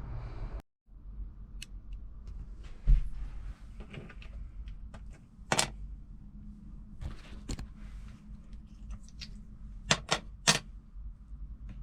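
Scattered sharp clicks and knocks of tools and parts being handled during installation work, with a dull thump about three seconds in and three quick clicks near the end.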